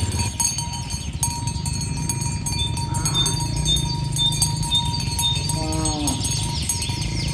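Cattle being herded, one cow giving a single short moo near the end over a steady low rumble. Faint high repeated pips run through the middle.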